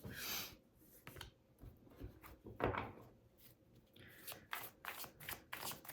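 Tarot cards being handled: soft rustles, then a quick run of light clicks and snaps near the end.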